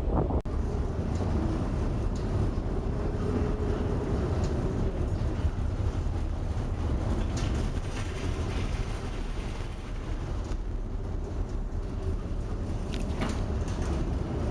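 Steady low rumble of a ship's engine and hull, with the noise of wind and sea around it.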